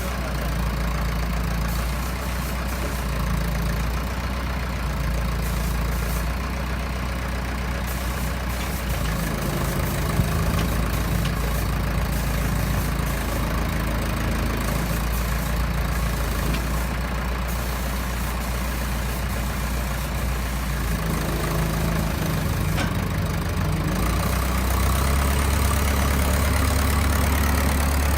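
Heavy machinery running with a steady low hum that shifts in tone a few times and grows louder about 24 seconds in.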